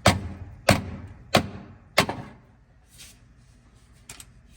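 Four hammer blows on metal, evenly spaced about two thirds of a second apart, each with a short ring, stopping about two seconds in.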